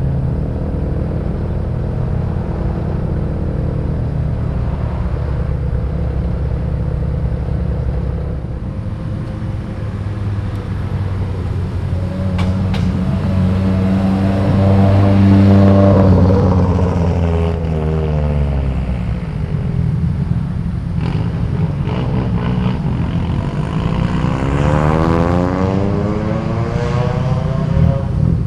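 Cars' engines and exhausts as they drive out one after another, over a steady low rumble. About halfway through, one car passes close: its engine note swells to the loudest point and falls in pitch as it goes by. Another passes near the end.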